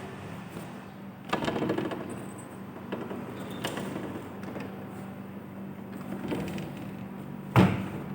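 Mitsubishi Electric air conditioner running with a steady low hum. About a second in there is a short rattling clatter, and near the end a single sharp knock, the loudest sound.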